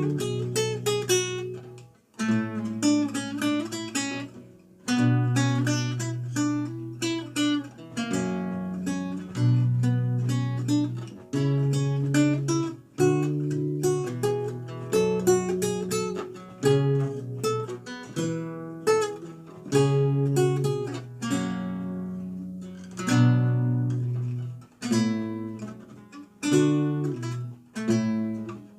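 Renaissance lute played solo: plucked melody notes and chords over a moving bass line, each note ringing and dying away, with a brief pause about two seconds in.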